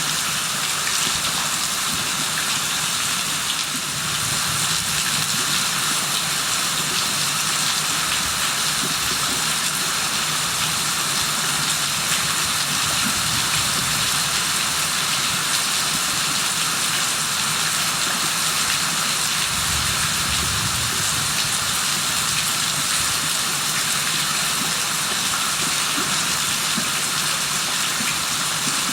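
Rain falling steadily: a dense, even hiss that holds at one level throughout.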